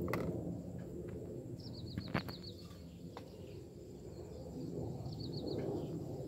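A small bird gives a rapid trill of quick, evenly repeated high notes, twice: a longer run about a second and a half in and a short one near the end. A few light clicks and rustles of hands handling tackle come in between.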